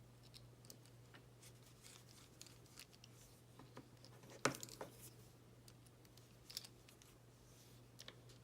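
Faint clicks and taps of small model-kit parts being handled and fitted, with a sharper click about four and a half seconds in and a few lighter ones after it, over a low steady hum.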